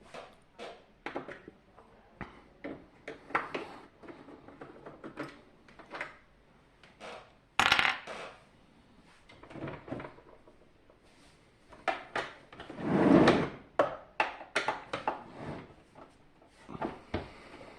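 Irregular clicks, taps and clatters of small hard parts and tools being handled while a dehumidifier is taken apart. A loud knock comes nearly eight seconds in, and a longer clatter about thirteen seconds in.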